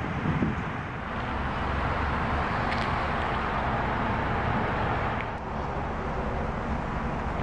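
Road traffic: a steady rush of passing vehicles with a low rumble, swelling about a second in and easing off about five seconds in.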